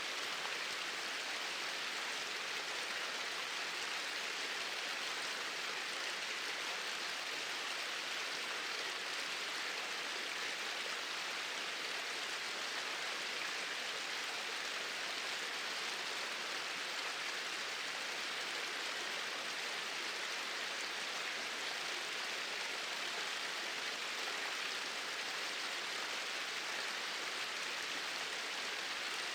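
Small waterfall splashing steadily.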